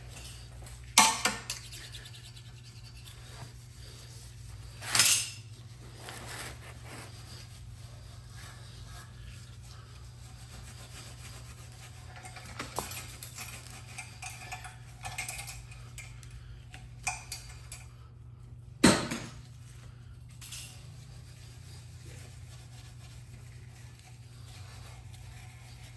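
Metal parts and tools being handled on a work surface: scattered clinks and knocks, three louder ones about a second in, about five seconds in and near nineteen seconds, over a steady low hum.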